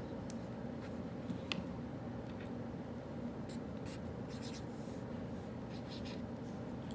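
Handwriting on paper in short strokes, a few early on and a run of them in the second half, over the steady low hum of the study café's background noise.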